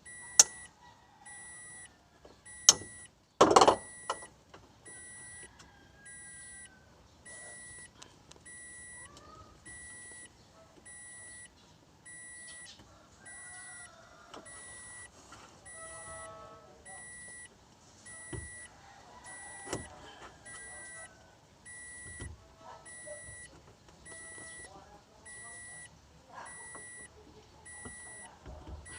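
An electronic beep repeating about once a second without stopping, with scattered sharp knocks and clanks of work; the loudest clank comes about three and a half seconds in.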